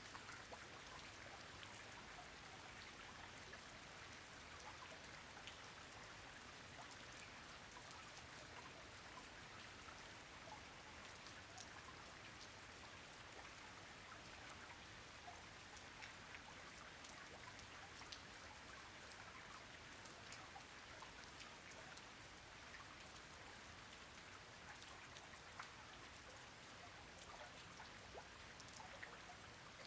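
Soft, steady rain falling onto a pond, with many separate drops ticking through the even hiss.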